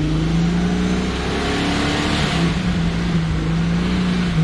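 Jeep engine revving hard and held high under load while climbing a slick off-road obstacle. Its pitch dips briefly about halfway, comes back up, then falls away at the end.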